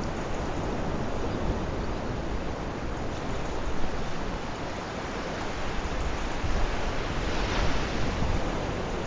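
Sea waves washing onto the shore in a steady hiss, with wind on the microphone adding a low rumble; a wave breaks with a louder, hissier wash about seven seconds in.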